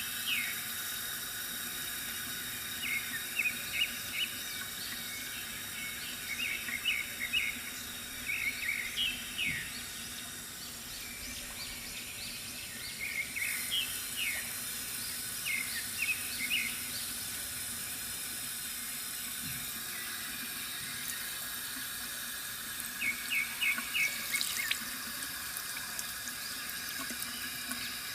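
Water trickling steadily from a bamboo fountain, with small birds chirping in short clusters of quick high notes every few seconds and a quieter stretch in the middle.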